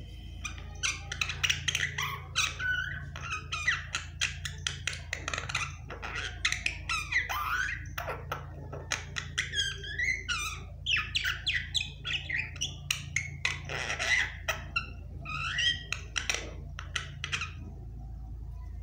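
Pet myna chattering: a long, rapid run of squawks, clicks and whistles that stops about a second before the end, over a steady low hum.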